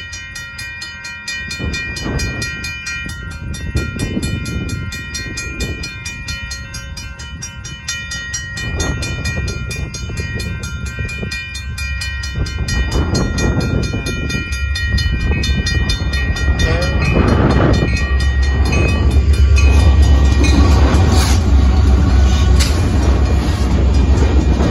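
Railroad crossing bells ringing steadily at the lowered gates while a Union Pacific diesel locomotive approaches. Its low rumble builds over the second half and is loudest as the locomotive reaches the crossing near the end.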